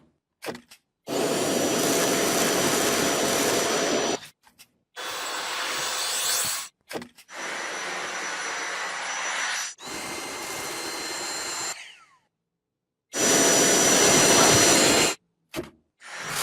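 Dyson V8 Absolute cordless stick vacuum running with a steady rush of suction and a thin high whine. The sound comes in several runs of about two seconds each, broken by sudden cuts to silence.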